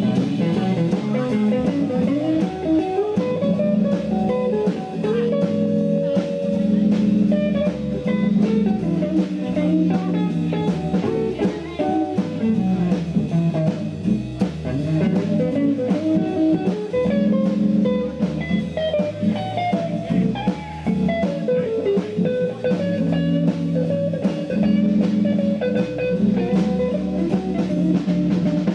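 Live jazz band playing a swing tune: a guitar melody over bass and a drum kit keeping a steady beat.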